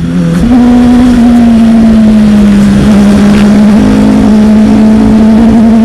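Motorcycle engine running at a steady cruising pitch, which steps up about half a second in, over heavy wind rumble on the microphone.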